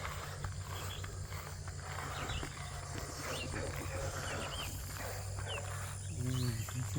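Birds calling: scattered short, high chirps, then a lower, fuller call near the end, over a steady low rumble.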